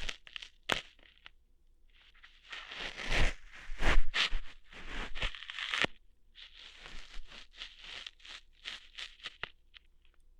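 ASMR ear-hair plucking sounds, close to the microphone: noisy scratching and rustling strokes with a sharp snap about a second in. The loudest run of strokes comes in the middle, followed by a string of softer short scratches that stop about a second before the end.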